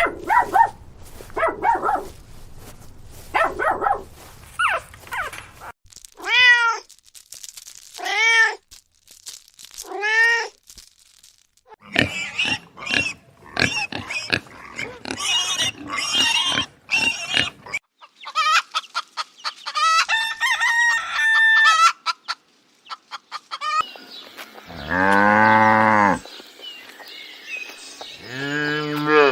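A run of different animals' calls one after another: three separate calls that rise and fall in pitch a few seconds in, a stretch of quick high chirps in the middle, and a long low call about 25 seconds in.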